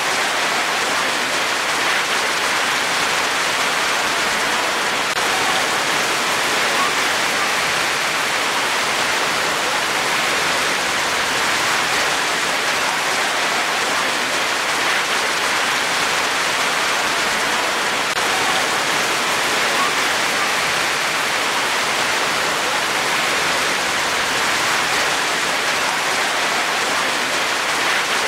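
Steady rain falling, an even wash of drops at a constant level with no breaks or changes.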